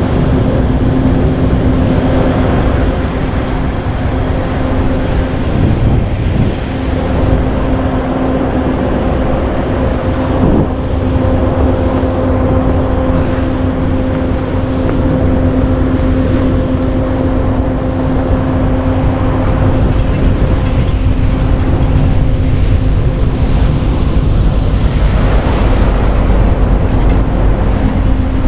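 Vehicle engines running steadily, one holding a steady hum that stops shortly before the end, over a heavy low rumble of wind on the microphone.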